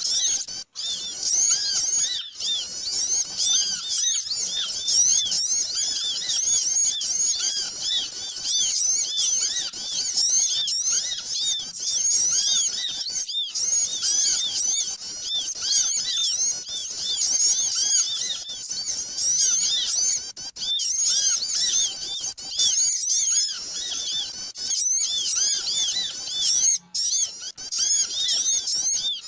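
Dense, overlapping chatter of a flock of small birds: rapid high chirps and squeaks going on continuously, broken by a few brief silent drops. It is a noisy small-bird lure call of the kind played to draw wild birds in for trapping.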